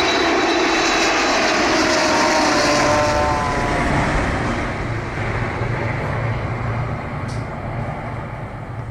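Boeing 787 passing low on landing approach with its ram air turbine deployed. Its engine whine falls in pitch as it passes, then eases off. The recorded engine sound from the Air India 787 is blended over it.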